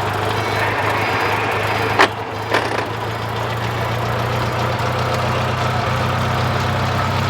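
Vintage Delage car engine idling steadily, with two sharp knocks about two seconds in.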